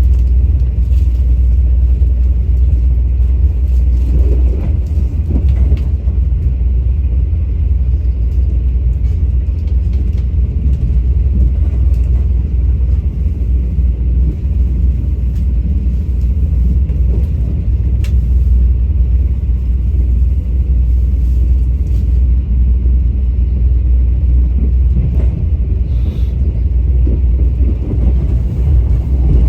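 Passenger train running, heard from inside the carriage: a loud, steady low rumble with faint scattered ticks from the wheels and car body.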